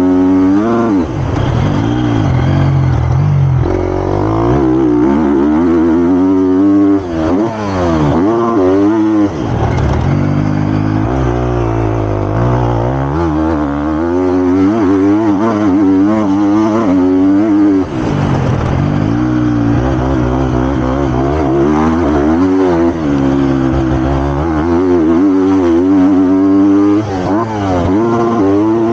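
Triumph TF250-X motocross bike's single-cylinder four-stroke engine revving hard and backing off over and over while being ridden round a track, pitch climbing through the gears and dropping briefly where the throttle is shut, about four times.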